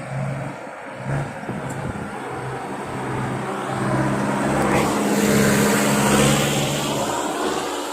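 Kubota farm tractor's diesel engine working under load in the field, swelling louder from about three seconds in to a peak near six seconds, then easing off.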